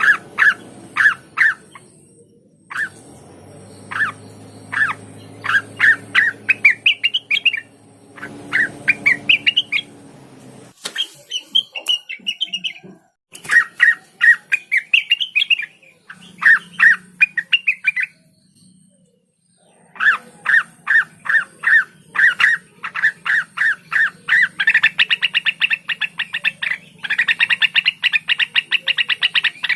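Cucak wilis, a leafbird, singing loudly in quick series of sharp repeated chirps, some runs climbing in pitch. There are two short pauses, and the song ends in a very fast, dense trill.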